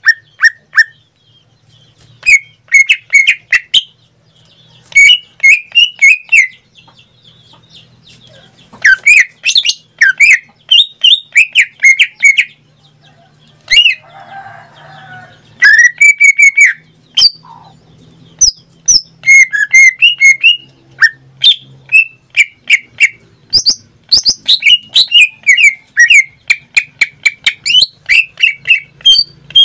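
Green leafbird (cucak ijo) singing loudly in full 'gacor' form: rapid phrases of short, clear, sliding whistled notes, repeated in bursts with brief pauses between them.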